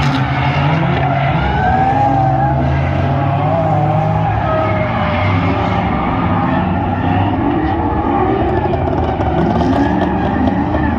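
Drift cars running hard: engines revving up and down with tyres squealing, a loud continuous din.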